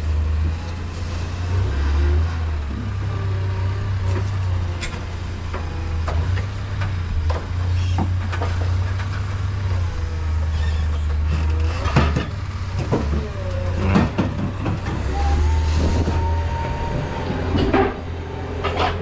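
Engine running steadily with a low hum as pallets are loaded with a forklift, with clunks and knocks of the load, two sharp ones about twelve and fourteen seconds in, and a short steady whine near the end.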